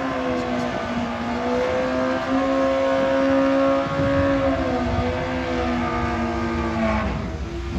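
Drag racing motorcycle engine running hard at high revs, holding a fairly steady high note with slight wavers, then dropping away about seven seconds in.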